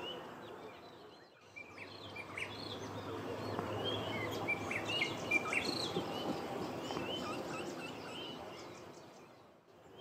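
Songbirds calling and singing in short, varied whistled notes and quick chirps, thickest in the middle, over a faint steady low hum.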